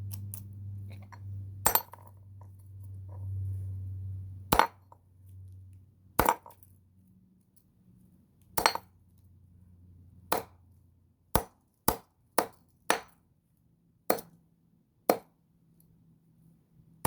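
Scissors snipping through slinky coils: about eleven sharp, clinking cuts at irregular intervals, coming faster about two-thirds of the way through. A low hum sounds under the first several seconds.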